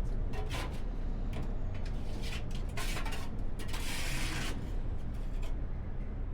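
Shovel scraping and rasping across the floor of a front-load garbage truck's body while clearing trash from behind the packer blade: a series of short scrapes, the longest about four seconds in.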